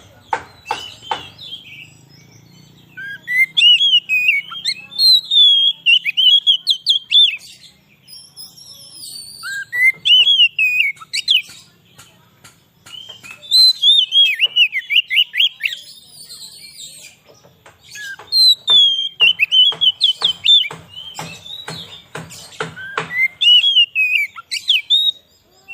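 Oriental magpie-robin (kacer) singing in bouts of fast, varied whistled phrases a few seconds long, mixed with sharp clicking notes and separated by short pauses.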